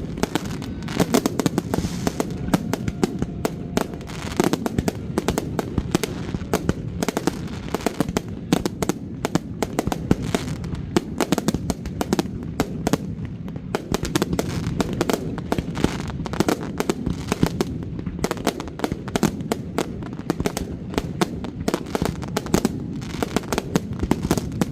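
Fireworks display: a dense, unbroken run of bangs and crackles, several a second, over a steady low background of the blasts.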